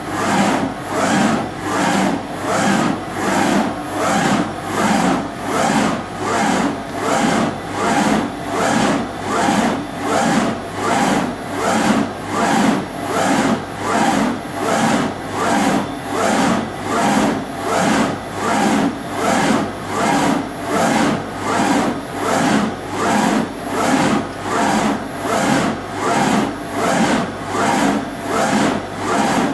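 Brand 850 NE CNC surface grinder running, its grinding noise swelling and fading in an even rhythm a little more than once a second over a steady machine hum.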